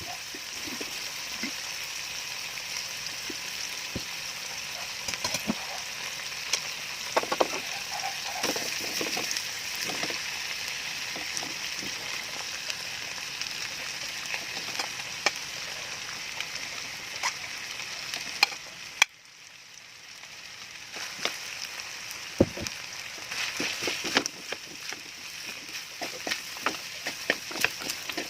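Food sizzling in a frying pan, with a steady hiss and scattered sharp clicks and scrapes of a utensil stirring against the pan. About two-thirds of the way through, the sizzle cuts off suddenly for a moment, then builds back up with more clicks.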